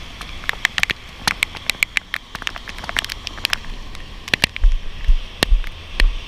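Raindrops striking the body-worn camera and rain gear as irregular sharp ticks. From about four and a half seconds in, wind buffets the microphone in low rumbling gusts.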